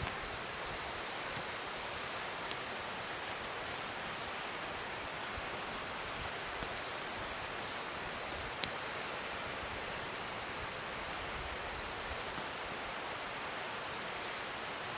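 Wood fire burning: a steady hiss with scattered sharp crackles and pops, one louder pop about two-thirds of the way through.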